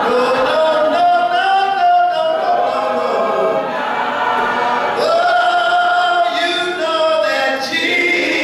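Group of voices singing together a cappella in church, without instruments, holding long notes that change pitch every second or so.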